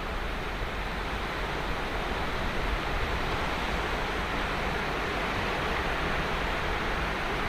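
Ocean surf breaking and washing up a sandy beach: a steady, continuous hiss of waves that swells and eases gently.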